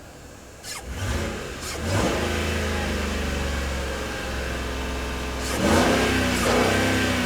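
A 2010 Ford F-150's 4.6-litre two-valve SOHC V8 running and revved up twice, once about a second in and again near six seconds, settling to a steady run in between.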